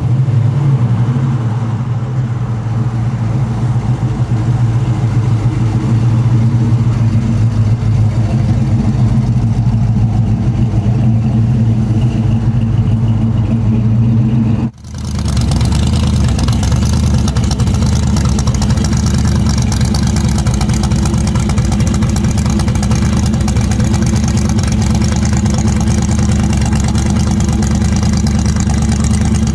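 Classic car engines idling with a steady low rumble. About halfway through the sound cuts sharply to a different engine, running rougher and with more rasp.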